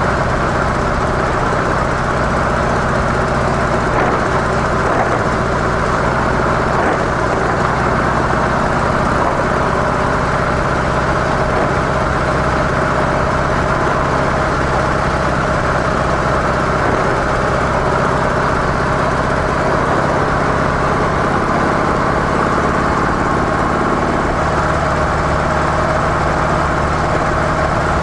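Harley-Davidson CVO Softail Deluxe's air-cooled V-twin engine running steadily through its stock mufflers.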